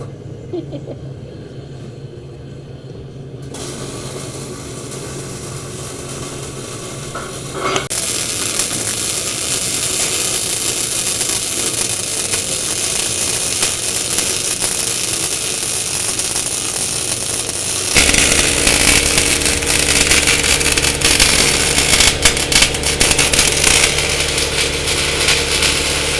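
A vehicle engine running, growing louder about eight seconds in and louder again with a heavier low rumble near the 18-second mark.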